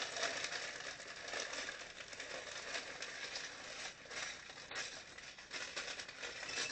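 Crinkling rustle of a plastic Lego parts bag being opened and handled, with a louder burst at the start and then a continuous rustle.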